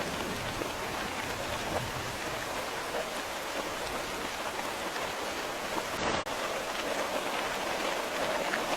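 Steady rain falling, with a dense patter of individual drops. The sound briefly drops out for a moment about six seconds in, then carries on.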